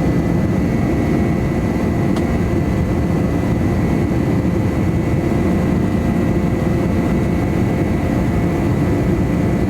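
Steady jet engine and airflow noise inside the cabin of a McDonnell Douglas MD-11 airliner, with a faint steady high whine.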